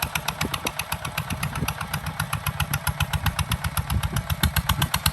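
Kubota ZT 155 DI single-cylinder diesel engine running steadily, with an even beat of about ten firing pulses a second.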